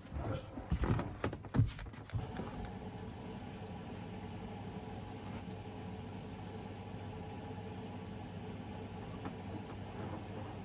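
A few knocks and clatters in the first two seconds, then a laundry machine running with a steady, even motor hum.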